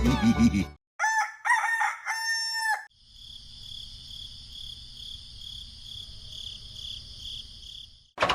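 A rooster crowing once, in a few drawn-out segments, followed by a steady high-pitched pulsing hum lasting about five seconds.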